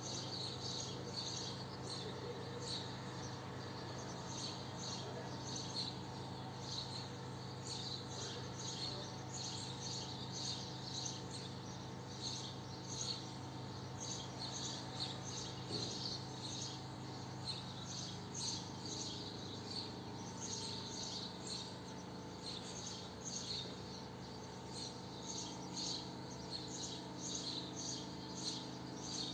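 Swallows twittering: many quick, high chirps overlapping throughout, over a steady low hum.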